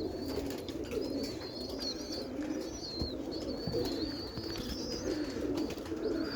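Domestic roller pigeons cooing in repeated low, warbling phrases, with thin high chirping from other birds running over the top.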